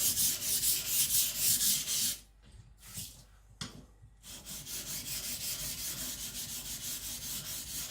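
Steel knife blade (AEB-L hardened to about HRC 66) rubbed back and forth on a whetstone in quick, even strokes while the edge is being started. The strokes pause for about two seconds, with a couple of light clicks, then resume a little quieter.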